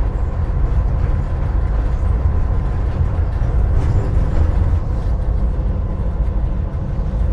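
EMD 16-cylinder 645 diesel of a GP38-2 locomotive running steadily with the train under way, a continuous low rumble with a faint steady whine above it.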